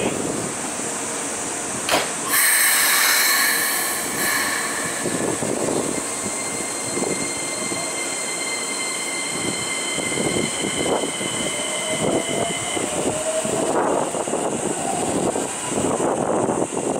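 Keikyu New 1000 series electric train at the platform: its doors shut with a click and a loud burst of air hiss, then steady high-pitched tones sound for several seconds, and a faint rising whine from the Siemens IGBT-VVVF inverter begins as the train starts to move. Near the end, train running noise follows.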